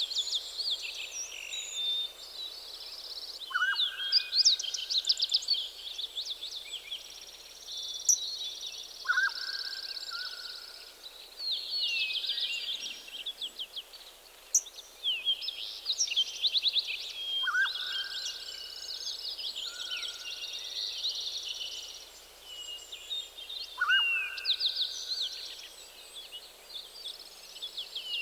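Morning chorus of several songbirds singing at once in a forest, with busy overlapping trills and quick high notes. A lower drawn-out whistle-like note recurs every several seconds.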